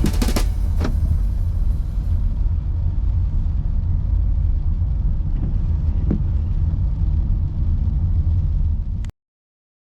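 A loud, steady low rumble with a few faint clicks, as the closing music fades out over the first two seconds; the sound cuts off suddenly about nine seconds in.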